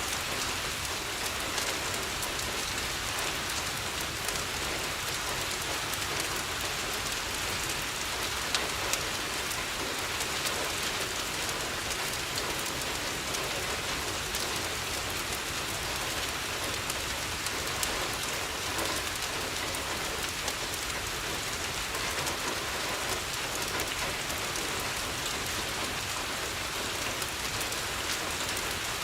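Steady rain on a window: a dense, even patter sprinkled with small scattered ticks.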